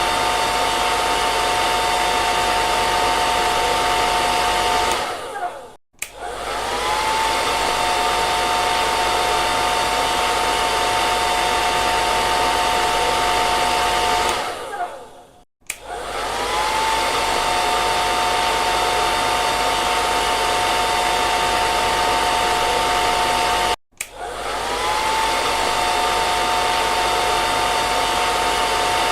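Hair dryer blowing steadily, a rushing airflow with a steady motor whine. Three times it dies away, cuts out briefly and starts up again, the whine rising as the motor spins back up.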